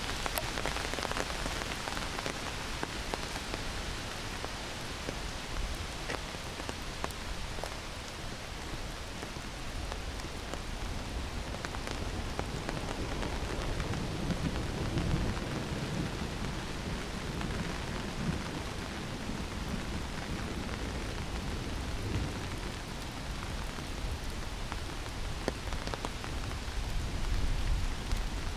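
Heavy rain falling steadily through forest trees, with fine drop ticks throughout. A low rumble of distant thunder swells about halfway through.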